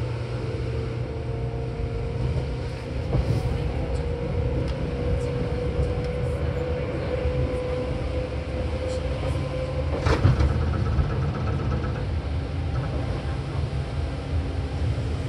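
Seibu 4000 series electric train running, heard from inside the car near its line breaker: a steady low rumble with a faint whine that rises slightly in pitch. About ten seconds in, the whine ends with a sharp clunk.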